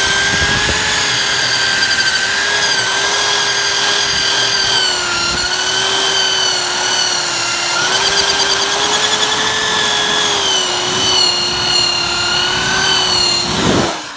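Electric drill spinning an abrasive attachment against metal, scraping paint off to bare metal for a good ground connection. The motor whine runs steadily, dips a little in pitch now and then under load, and cuts off just before the end.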